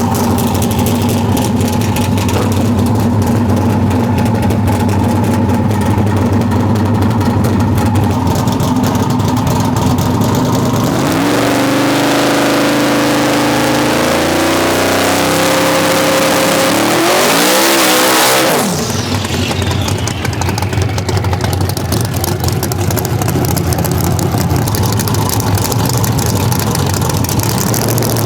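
Engine idling steadily, then revving and accelerating with a rising pitch for several seconds, peaking in a loud rush about two-thirds of the way through before settling back to a steady running note.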